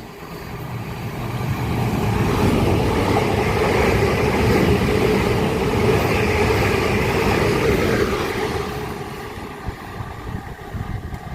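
South Western Railway electric multiple-unit train passing through the station. Its noise builds over about two seconds, holds steady, then fades from about eight seconds in, with uneven wheel-and-rail noise near the end.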